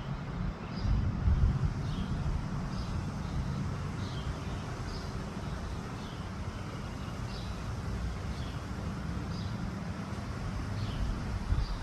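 Wind buffeting the microphone in an uneven low rumble, with a bird repeating a short, high, falling chirp every second or so.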